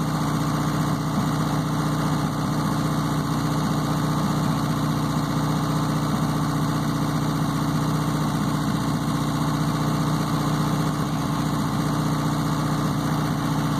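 Subaru conversion engine running steadily at about 1,800 rpm, an even hum with no change in speed.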